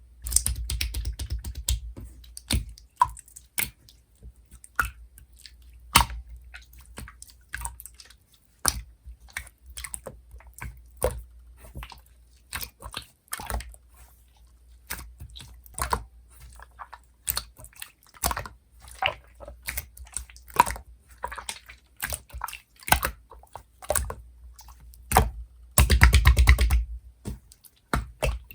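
Clear slime being played with by hand: irregular sticky clicks, pops and wet squishes as it is pressed, stretched and folded, with a denser run of popping near the end.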